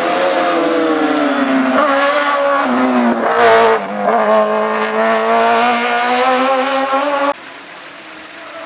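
Race car engine on a hillclimb run: its note falls as the car slows, a short loud noisy burst comes about halfway, then the engine holds a steady high note. Near the end the sound cuts off abruptly and a quieter engine note starts rising.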